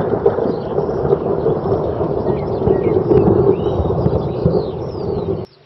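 Thunder rumbling on and on, with birds chirping faintly above it; the sound cuts off abruptly near the end.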